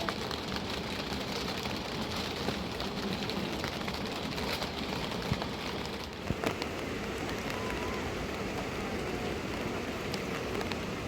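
Steady rain falling, a continuous hiss with many small drop ticks and a few sharper drop hits about five and six and a half seconds in.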